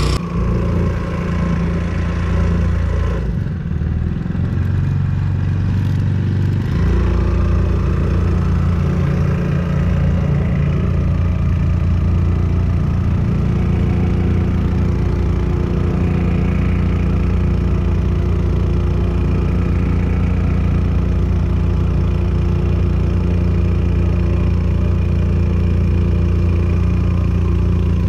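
Brand-new Hangkai 4 hp four-stroke single-cylinder outboard motor running steadily just off idle, with the propeller just turning, during its first hour of break-in. A few seconds in, the deepest part of the engine note drops away for a few seconds, then comes back the same as before.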